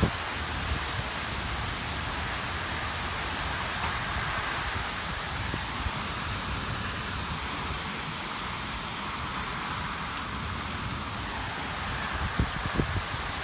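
Heavy rain pouring down steadily in a thunderstorm. A few sharp knocks come near the end.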